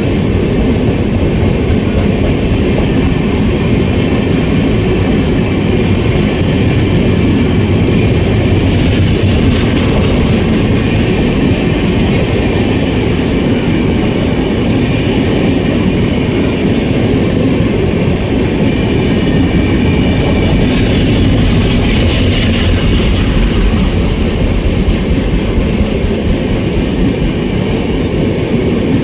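An Indian express passenger train running through a station at speed without stopping: a steady, loud rush of wheels on track as the coaches go past.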